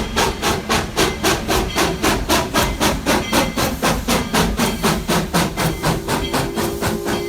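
Narrow-gauge steam locomotive working, its exhaust chuffing in a steady, even beat of about four chuffs a second.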